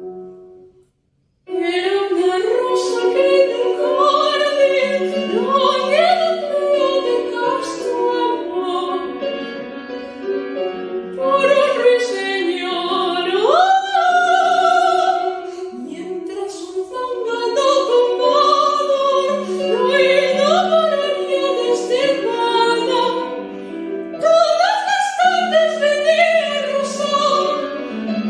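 Soprano singing a zarzuela aria with piano accompaniment, her voice wavering with vibrato and sweeping up in several quick slides. The music breaks off for about a second near the start, then resumes.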